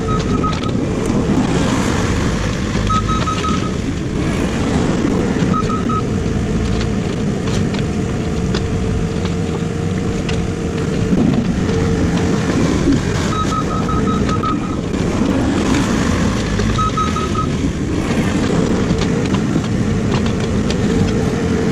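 Excavator's diesel engine running steadily while it works, with several short bursts of rapid high-pitched beeping.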